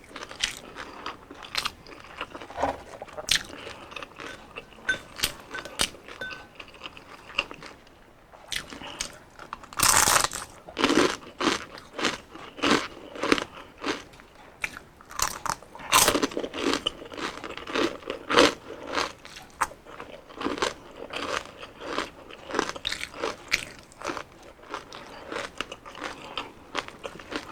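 Close-up crunching and chewing of deep-fried crispy pork knuckle skin and crispy chicken skin: irregular crisp crackles with bites, louder and denser from about a third of the way in.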